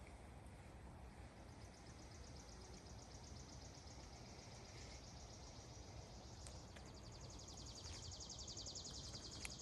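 A faint, high-pitched rapid trill from a small animal. It starts about a second and a half in, gets louder and slightly lower about two-thirds of the way through, and stops at the end.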